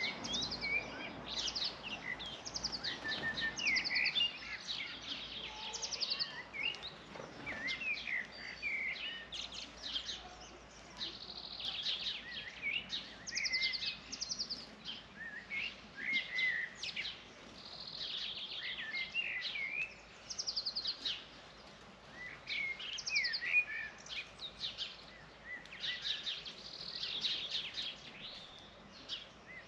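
Many small birds chirping and twittering at once, a continuous overlapping chatter of short high calls and quick trills.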